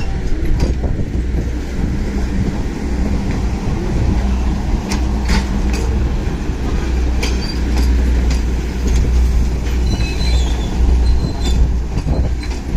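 Train rolling past: a steady low rumble with scattered clicks of wheels over the rail, and a brief high wheel squeal about ten seconds in.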